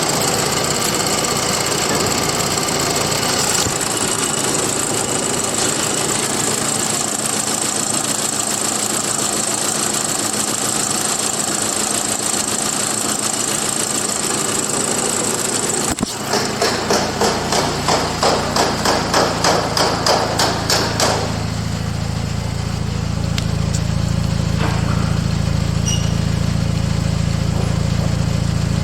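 For the first half, a steady noisy machine sound with a high whine. Then a click, and the Volkswagen Golf V GTI's 2.0-litre turbocharged four-cylinder (BWA) cranks on the starter for about four seconds with a rhythmic pulsing, catches, and settles into a steady idle.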